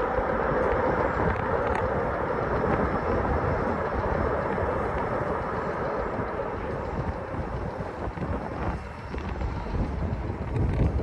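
Jet airliner engine noise, a steady rush that slowly eases off, with low wind rumble on the microphone.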